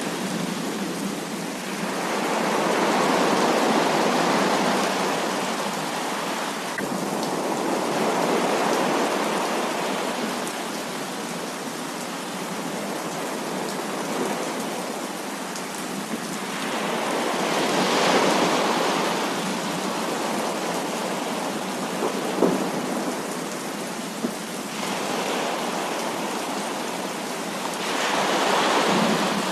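Heavy rain falling steadily, with rolling thunder that swells and fades several times. Two short sharp taps stand out a little past the middle.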